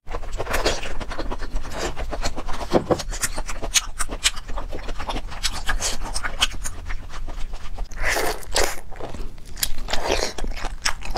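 Close-miked chewing of cooked octopus tentacle: a rapid run of wet mouth clicks and smacks, with a few longer wet bursts about eight and ten seconds in.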